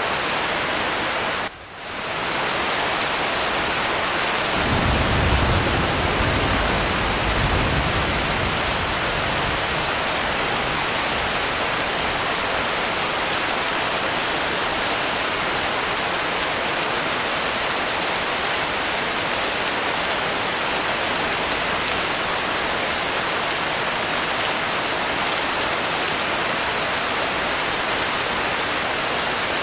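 Steady, dense rainfall hiss. The rain briefly drops out about a second and a half in, and from about four seconds in a low rumble of distant thunder rises and fades away over several seconds.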